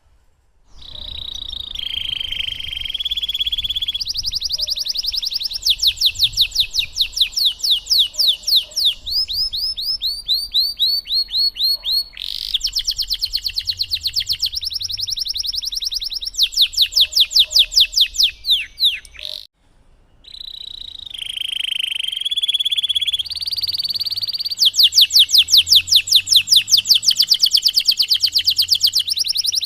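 Domestic canary singing a long, loud song of rapid trills and rolls, each phrase a fast run of repeated high notes lasting a few seconds before switching to the next. The song breaks off briefly about two-thirds of the way through, then starts again.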